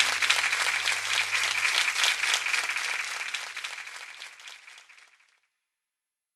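Crowd applause, many hands clapping, fading out steadily and stopping about five seconds in.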